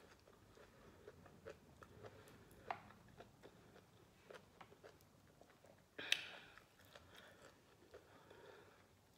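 Faint wet chewing and small mouth clicks of someone eating raw lemon wedges, with a louder bite about six seconds in.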